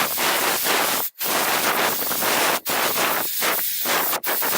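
Compressed air from a can of air duster blown across a camera's built-in microphone ports, giving a loud rushing hiss of wind noise on the microphone. It comes in four spurts with brief stops between them.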